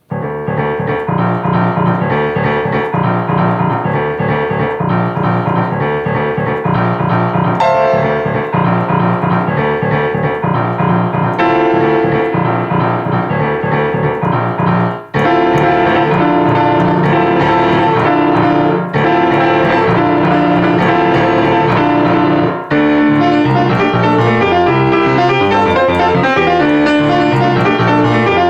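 Piano playing a fast, driving piece with repeated low bass figures under busy right-hand notes, pausing for a moment about halfway through.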